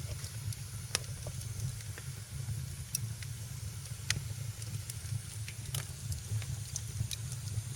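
Wood fire crackling in a fireplace: irregular sharp pops and snaps, about a dozen with a few louder ones, over a steady low rumble and hiss.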